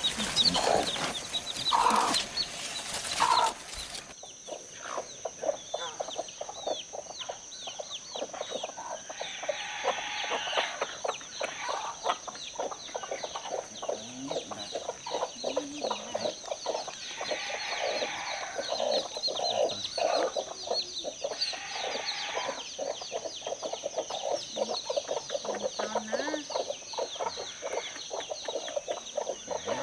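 Chickens clucking continuously in a dense chatter of short calls, with a louder burst of noise in the first few seconds and a steady high-pitched whine underneath.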